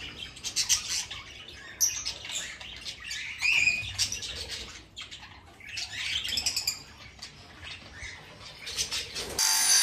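Budgerigars chirping and squawking in short, scattered calls, with some wing flutter and rustling. A steady hiss comes in just before the end.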